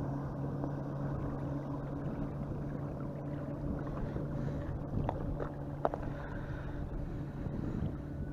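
Steady low engine drone holding one pitch, with a few faint clicks in the middle.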